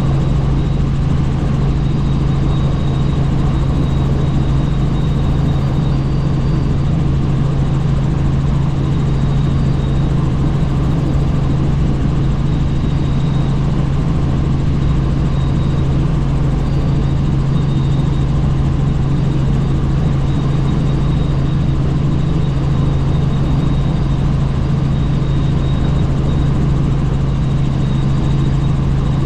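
Helicopter in flight, heard from on board: a steady, loud drone with a constant low hum and a faint high whine that do not change.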